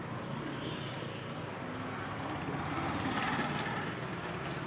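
Honda Click 125i scooter's single-cylinder engine running steadily while riding in city traffic, with road and traffic noise that swells about three seconds in.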